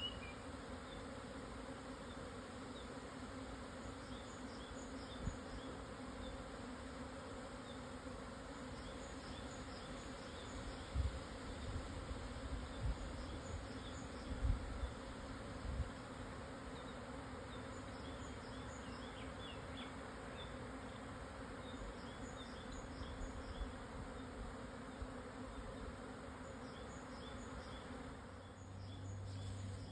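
A swarm of Japanese honeybees buzzing in the air, a steady low hum of many wings. A few dull low bumps come about midway.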